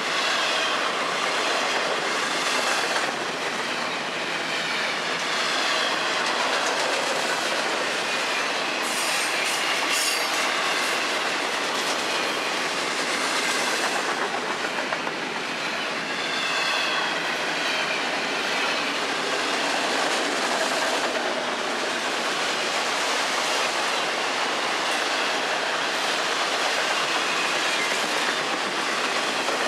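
FEC freight train cars rolling steadily past, double-stack intermodal well cars and then autorack cars, with wheels clattering over the rail joints and faint wheel squeals coming and going.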